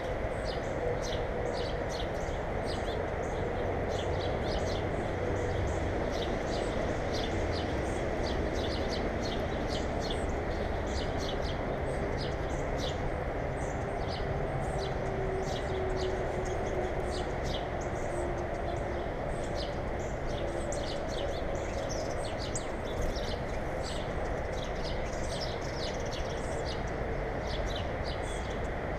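Small birds chirping over and over in short quick notes at a bird feeder, over a steady background noise with a faint hum that slowly drifts in pitch.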